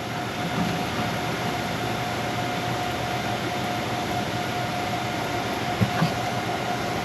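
Kawasaki Ninja H2's supercharged inline-four idling steadily, warmed up to about 180 degrees, with a steady high whine over the running noise.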